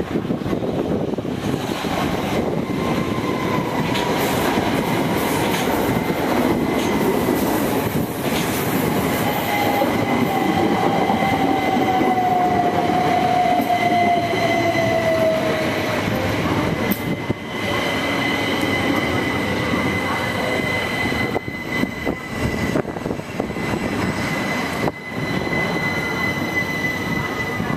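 Class 455 electric multiple unit train running through the station over a steady rumble, with a high, steady wheel squeal that sets in a few seconds in and lasts to the end. A lower tone slides slowly down in pitch during the first half.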